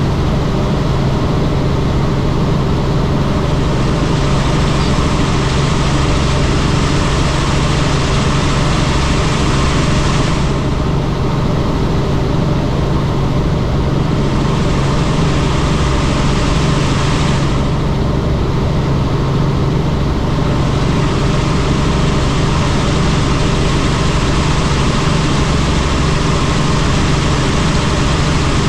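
Helicopter in flight: the steady, loud drone of its engine and rotor with a rushing hiss over it. The hiss eases twice for a few seconds, about ten seconds in and again near the middle.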